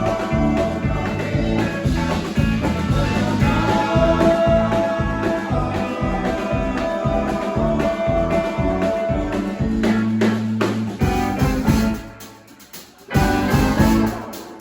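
Live band playing blues-rock, led by guitar over bass and drums. About twelve seconds in the music drops away, comes back for a short burst, and drops away again at the end, like stop-time breaks.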